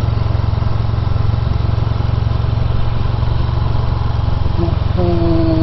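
Honda VFR1200X Crosstourer's V4 engine running steadily at low revs, under a steady hiss of wind and road noise.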